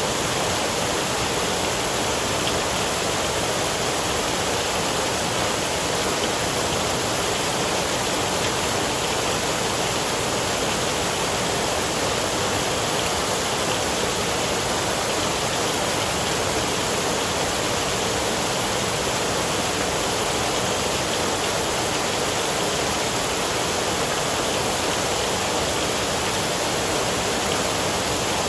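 Steady, even hiss of heavy rain with no thunder claps or swells.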